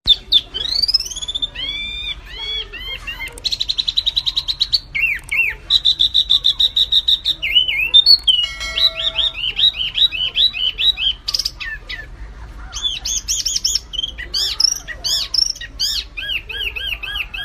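Wambi mini and kapas tembak songbirds singing without a break: quick arched chirps, fast buzzy trills and short held whistles. It is a masteran recording, birdsong played to cage birds so they learn the song.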